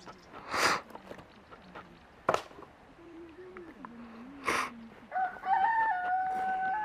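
A rooster crowing once, a long stepped call in the last two seconds or so. Before it come three short hissing bursts.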